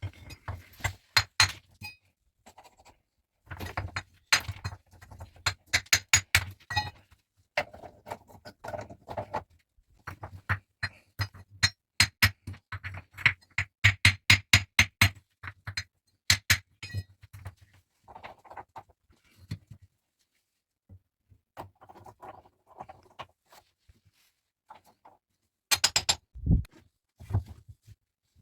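Runs of quick, sharp knocks and clinks of hard objects, several a second, in bursts with short pauses, and a few heavier thuds near the end.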